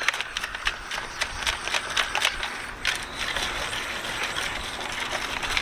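Gravel clattering and rattling inside a rusty metal gas tank with a little gasoline in it, a dense run of small clicks as the tank is worked about to knock the rust loose.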